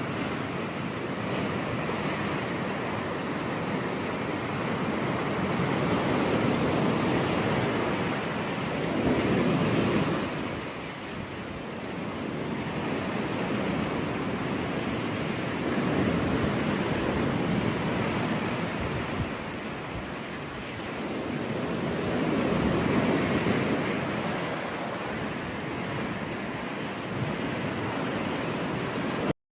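Ocean surf washing onto a beach, the roar of the waves swelling and easing about every seven seconds. The sound cuts out for a moment near the end.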